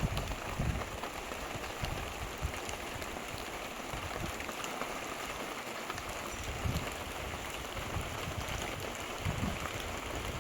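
Steady rain, a continuous hiss with scattered drop ticks and occasional low rumbles.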